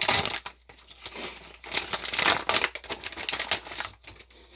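Plastic packaging of dishwasher detergent blocks crinkling as it is handled, in several short irregular bursts.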